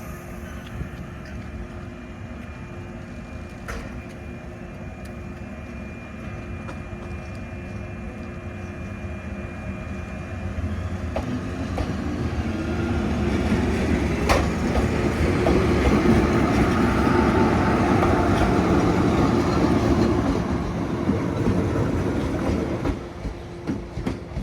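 Electric train rolling slowly past on the rails, its wheels clattering over the rail joints. The sound grows louder about halfway through and drops away near the end.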